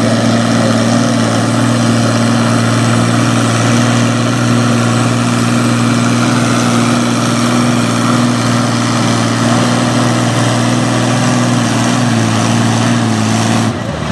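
Farm-class pulling tractor engine running loud at a steady speed, cutting off abruptly near the end.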